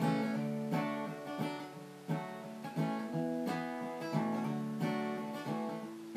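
Acoustic guitar strumming chords in a steady rhythm, with a fresh strum about every two-thirds of a second.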